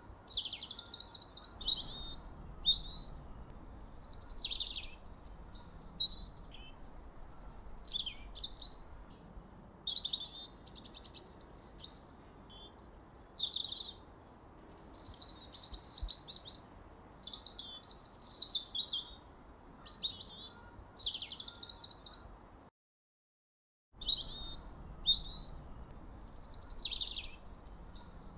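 Songbirds chirping and singing, many short varied phrases following and overlapping one another, over a faint steady low background hiss. The sound cuts out completely for about a second near the end.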